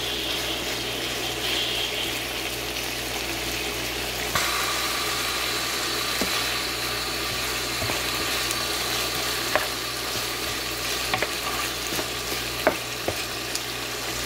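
Chicken thigh pieces and rice cakes sizzling in a pan as a spatula stirs them, with a few sharp knocks of the spatula against the pan in the second half. A faint steady whine joins about four seconds in.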